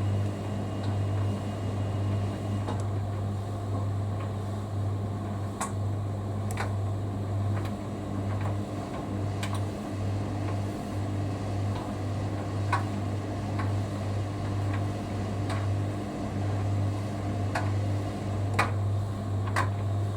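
Hoover Dynamic Next front-loading washing machine running in its rinse, the drum motor giving a steady low hum that stops briefly a few times as the drum pauses. Scattered sharp clicks and knocks come through over the hum.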